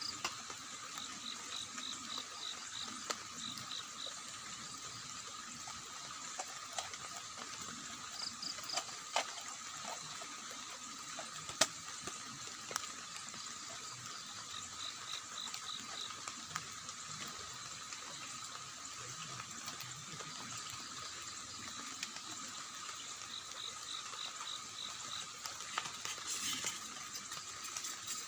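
Steady rush of rain and river water with scattered drip ticks. Short runs of rapid high chirps come every few seconds over a steady high-pitched hum of night creatures.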